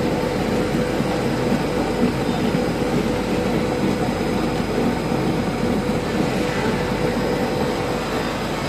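Steady machine noise: a continuous mechanical drone with a constant hum tone running through it.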